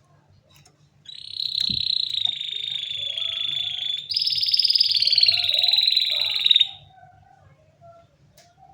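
Domestic canary singing two long, rapid rolling trills, one straight after the other, starting about a second in. The second trill begins a little higher and falls in pitch before it stops.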